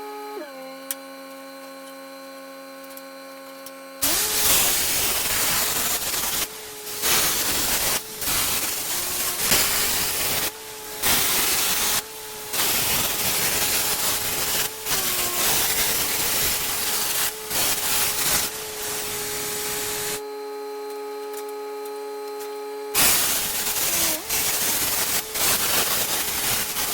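Plasma cutter hissing through a series of cuts in steel, starting about four seconds in and breaking off between cuts, with a pause of a few seconds near the end. A steady motor hum runs underneath throughout.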